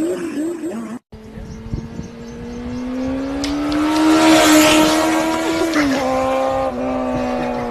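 Motorcycle engine running. After an abrupt cut about a second in, its steady pitch climbs slowly and grows louder, then drops back and holds level near the end.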